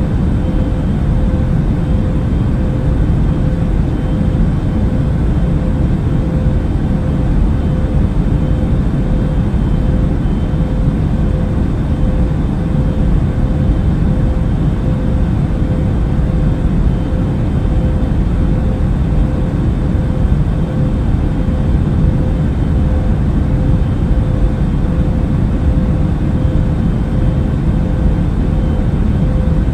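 Steady airliner cabin noise in flight: an even, deep rush of air and engine noise with a faint steady hum on top, unchanging throughout.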